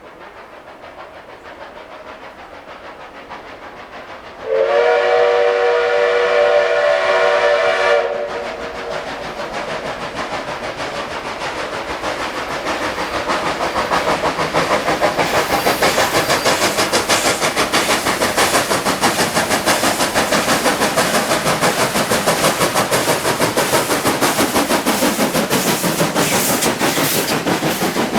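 A train whistle sounds one long blast of about three seconds, a few seconds in. Then the approaching train's running noise grows louder, with a rapid rhythmic clatter.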